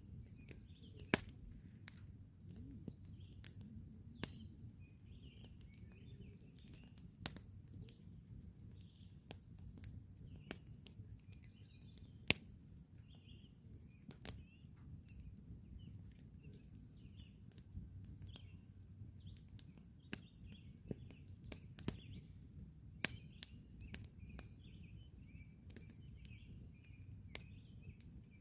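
Wood campfire crackling, with sharp pops scattered irregularly; the loudest comes about a second in and another near twelve seconds in, over a steady low rumble. Birds chirp in the background.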